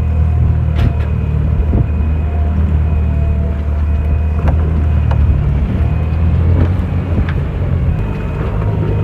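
A boat's engine running steadily with a deep hum, while a few sharp knocks sound as the grounded hull bumps on the sea floor; an intermittent beeping tone comes and goes throughout.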